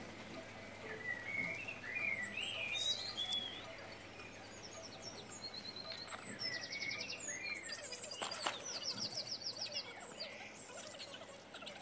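Several birds chirping and calling, with fast trills of rapidly repeated high notes a little past halfway and again later on. A single sharp click sounds partway through.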